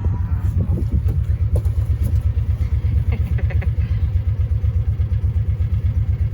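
A vehicle engine running steadily, with a low, rapid, even throb.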